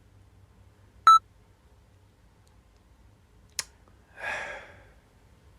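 A short, loud electronic beep about a second in, then a sharp click, followed by a brief breathy rush of noise.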